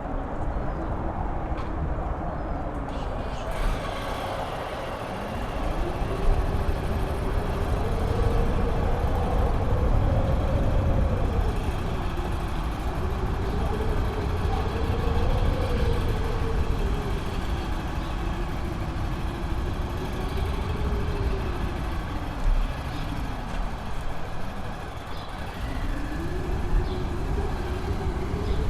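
Strong wind howling, its pitch swelling up and down in slow waves, over a deep rumble of gusts buffeting the microphone; the gusts strengthen about five seconds in.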